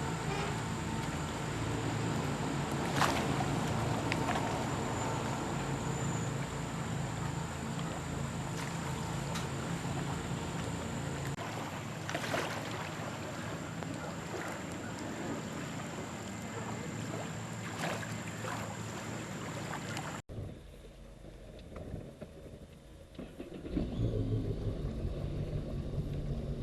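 Sea-Doo RXP-X 255 jet ski's supercharged three-cylinder engine running steadily under way, with rushing water and wind and a few sharp slaps from the hull hitting waves. About two-thirds of the way through the sound cuts off abruptly to something much quieter.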